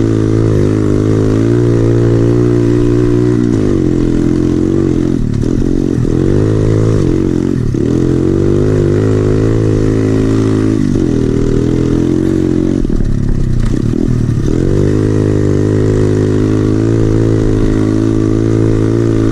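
SSR 110cc pit bike's single-cylinder four-stroke engine running hard through an FMF exhaust while being ridden. The engine note holds high and steady, then several times in the middle it dips and climbs back as the throttle is eased and opened again.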